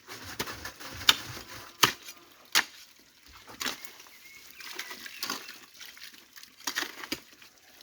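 Irregular sharp knocks and scrapes, about one a second, over faint water sounds: debris being cleared by hand or with a tool in a shallow stream.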